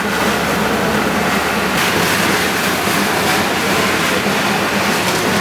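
Heavy machinery, such as a bulldozer, running with a steady, loud mechanical rumble and clatter.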